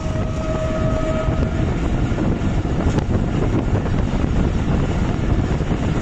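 Passenger train running, heard from an open coach door: a loud, steady rumble and clatter of the coaches' wheels on the rails. A steady tone sounds over it for the first second and a half or so.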